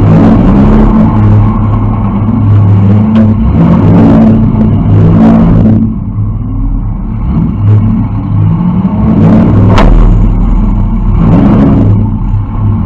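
Demolition derby car's engine revving loudly and easing off in waves, heard from inside the stripped cabin. A single sharp crack comes about ten seconds in.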